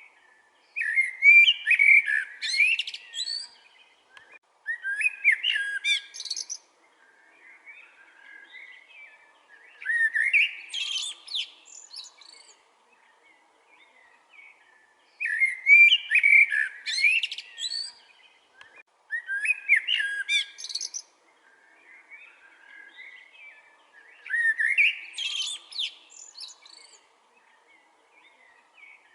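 A songbird singing loud, rapid, complex phrases of about two seconds each, repeated every four to five seconds, with softer chirps between the phrases.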